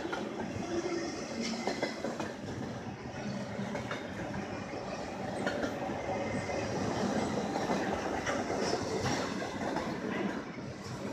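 Double-stack intermodal freight train cars rolling past close by: a steady rumble of steel wheels on rail with scattered clicks and clatter.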